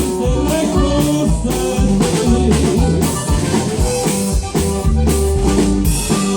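A band playing an instrumental passage of a song, with a steady drum beat under bass and a melody line.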